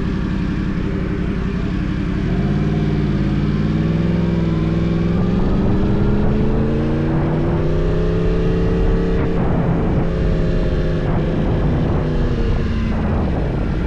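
An engine running, its pitch climbing slowly over several seconds, then dropping back about ten seconds in and holding steady.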